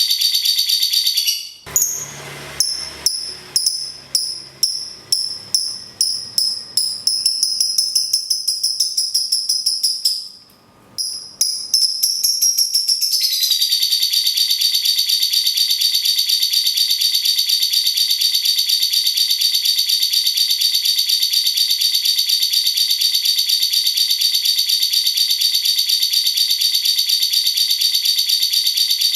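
Caged songbirds calling in turn. A lovebird's long, rapid rattling trill (ngekek) starts and ends the stretch. For about ten seconds it gives way to a run of separate, evenly spaced cucak cungkok calls.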